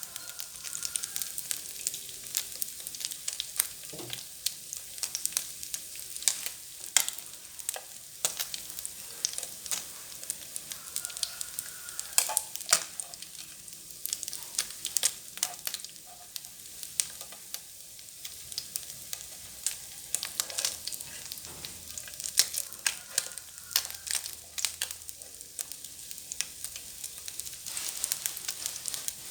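Freshwater field fish frying in hot oil: a steady sizzle with frequent sharp, irregular pops and crackles.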